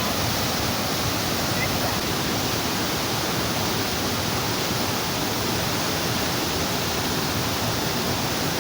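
Waterfall's water rushing steadily: a dense, even hiss of falling water close by.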